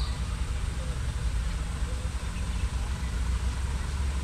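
Steady low rumble of a motor vehicle under way, engine and road noise heard as a continuous drone with a hiss above it.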